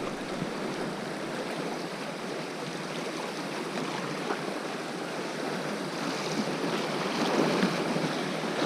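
Sea waves washing over a rocky shore, a steady rushing that swells louder about two-thirds of the way through.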